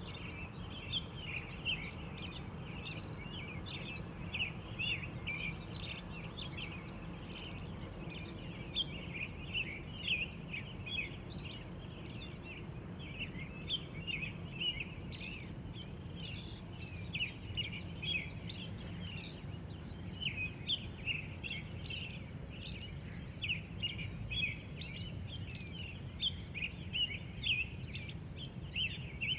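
Early-morning birdsong: a dense run of short chirps and calls from several birds, over a steady high-pitched insect trill and a low background hum.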